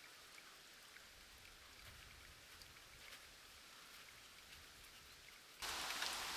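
Faint outdoor hiss with a few light ticks, then about five and a half seconds in a gust of wind sweeps through the surrounding bush, a sudden, steady rush of rustling leaves.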